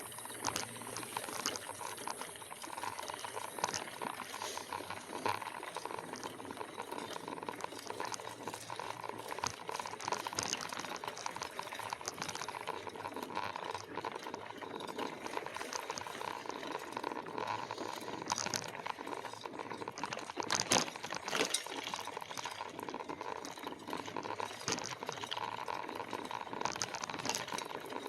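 E-bike rolling along a dirt trail: a steady crackling rush of tyre and ride noise, with many small clicks and rattles throughout and a steady high hum underneath.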